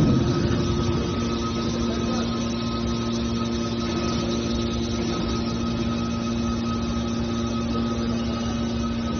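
Steel drum baler's hydraulic power unit running steadily with a continuous multi-tone hum; a loud knock just before fades out at the start, and a second, lower hum tone joins about a second in.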